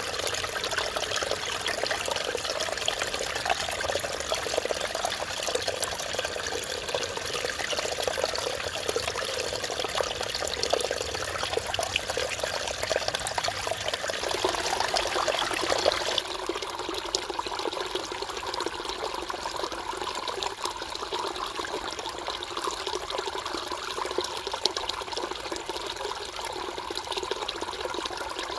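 Mountain stream water running and splashing over rocks, a steady rushing babble. Past the middle it changes abruptly to a slightly softer, duller flow.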